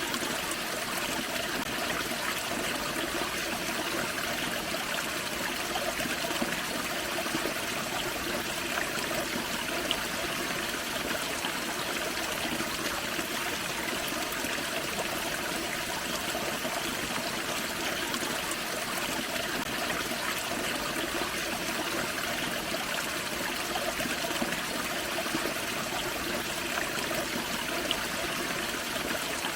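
Small forest waterfall and creek running steadily, water splashing and trickling over rocks.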